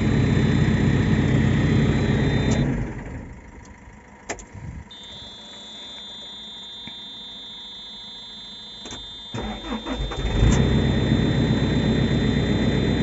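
JCB 4CX backhoe loader's diesel engine running, then shut off about three seconds in; after a quiet pause with a steady high tone and a click, it is cranked and catches about a second later, running again. It now starts and runs, since the chafed bare wires in its 5 V sensor circuit were repaired, though fault codes remain.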